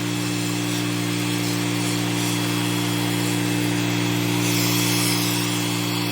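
Pressure washer running steadily: a constant machine hum with an even hiss of spray over it.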